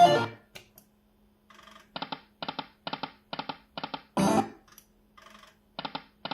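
Slot machine sound effects: a short pitched jingle repeated about twice a second while the reels spin, with a louder burst at the start and again about four seconds in.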